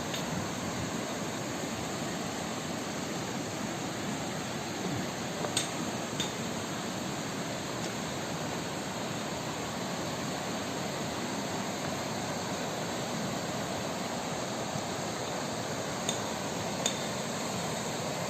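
A river rushing steadily. A few brief, sharp clicks sound over it, twice around a third of the way in and twice near the end.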